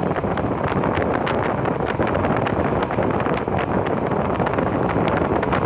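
A passenger train running along the track, heard from inside the carriage: a steady rumble with frequent irregular clicks and rattles from the wheels and coach.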